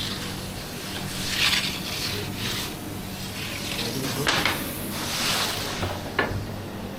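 Kitchen work: irregular rubbing and scraping swishes of handling over a steady low machine hum, with a single sharp click about six seconds in.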